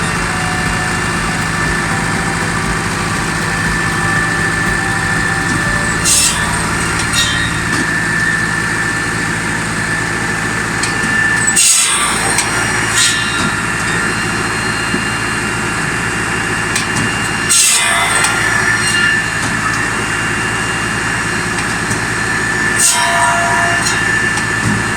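Tractor-PTO-driven circular log saw (Rosselli Speedy 700 R) running steadily, several steady tones of the spinning drive and tractor engine held throughout. Four short loud bursts of noise break in, about every five to six seconds.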